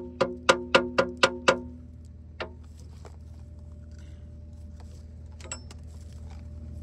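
Hammer striking steel with a ringing tone: seven quick blows about four a second, then two single taps later on, while a replacement bucket tooth is fitted to an excavator bucket. A steady low hum runs underneath.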